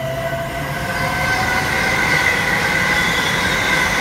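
A Class 800 intercity train running past close by: a rumble of wheels on rails under several high whining tones that rise slightly in pitch. The sound grows louder from about a second in.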